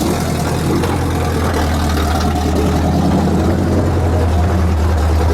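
Mud truck's big engine idling steadily at an even, low pitch.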